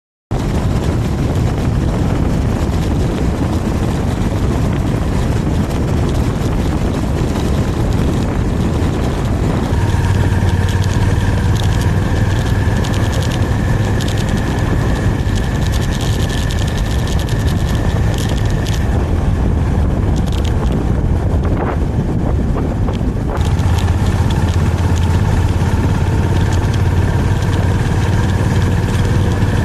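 Honda GB350C's air-cooled single-cylinder engine running under way, beneath heavy wind rush. A steady engine note comes up about ten seconds in, falls away for a few seconds past the twenty-second mark, and returns.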